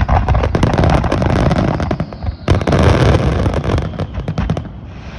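Aerial fireworks bursting in rapid succession: deep booms under a dense crackle of many small reports. There is a brief dip about halfway through, and the barrage thins out near the end.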